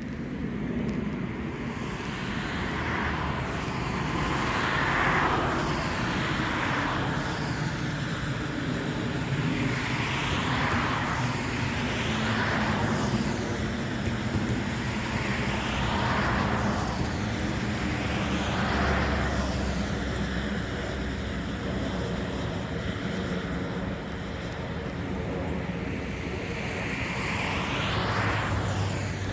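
Road traffic: cars passing one after another, each swelling up and fading away, over a steady traffic hum.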